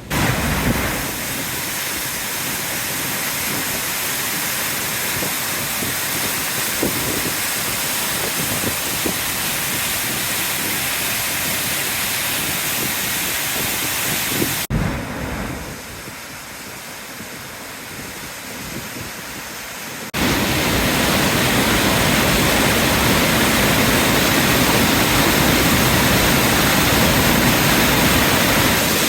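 Floodwater pouring over a dam, a loud, steady rush of falling water. About halfway through it drops quieter for a few seconds, then comes back louder.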